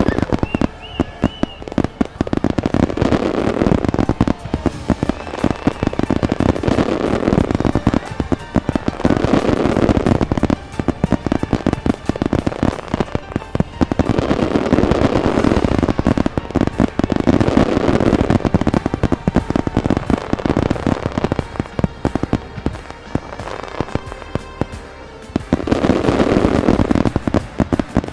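Large fireworks display: rapid, dense bangs and crackling that swell and ease in waves, with music playing underneath.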